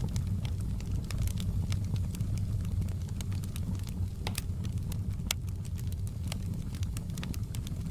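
Logs burning in a fireplace: a steady low rumble of the fire with irregular sharp crackles and pops, a couple of louder pops past the middle.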